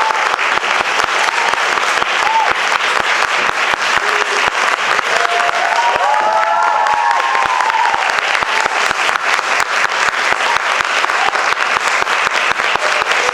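Audience applauding steadily, with a few voices cheering briefly about six seconds in.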